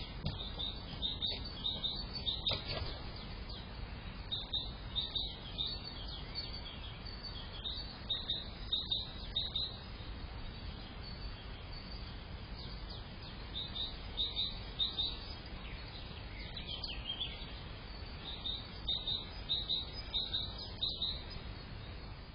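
Small birds chirping: short, high notes repeated in quick runs, several bursts with pauses between, over a steady background hiss.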